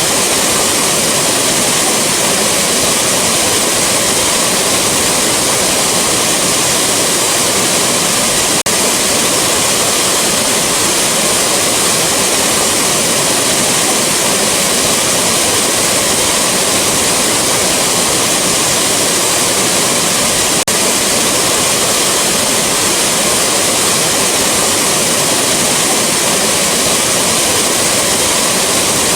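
Waterfall rushing: a loud, steady roar of falling water with no change, broken twice by a momentary dip.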